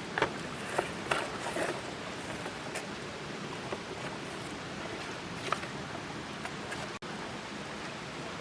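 A steady hiss of outdoor background noise, with a few light, sharp clicks in the first two seconds and one more about five and a half seconds in. The sound drops out for an instant about seven seconds in.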